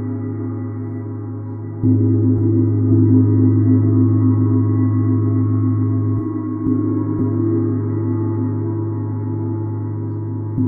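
A gong played softly with a mallet, its low hum carrying on between strokes. A stronger stroke about two seconds in swells the sound, and lighter strokes follow now and then.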